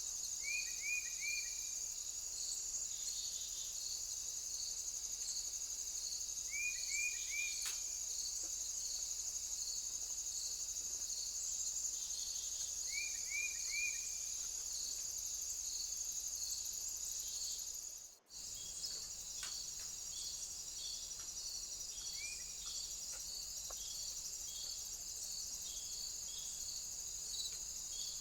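A steady, high-pitched insect chorus with an evenly pulsing chirp running through it. A bird gives short bursts of three quick falling notes about every six seconds, then a single note later. The sound drops out briefly about 18 seconds in.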